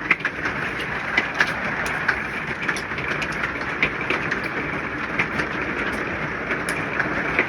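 Hail and rain hitting a camper's roof and walls: a steady rush of noise with many irregular, sharp ticks of stones striking.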